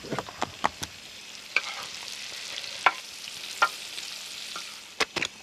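Seasoned potatoes sizzling in a hot frying pan while a spatula stirs them, with scattered clicks and scrapes of the spatula against the pan.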